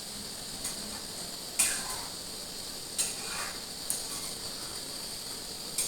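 Kitchen utensils and cookware clinking: four short knocks, the loudest about one and a half seconds in, over a steady hiss.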